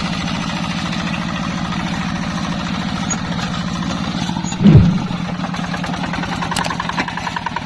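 Yanmar hand tractor's single-cylinder diesel engine running with a fast, even thudding beat. About halfway through there is a brief loud sound that drops sharply in pitch.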